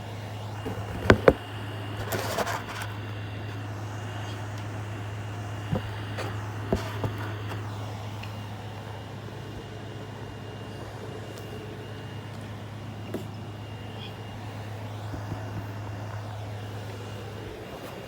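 A motorized toy train's small electric motor hums steadily as it runs along the track, stopping shortly before the end. A few sharp clicks sound, with two loud ones close together about a second in.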